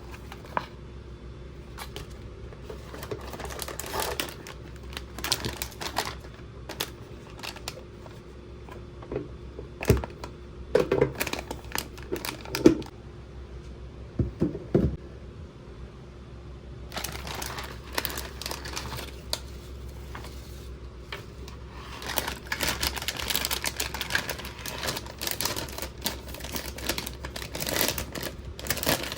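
Hands handling a plastic toy and its packaging: scattered clicks, taps and rustles with a few sharper knocks, turning into a dense run of rapid clicking and crinkling in the last several seconds.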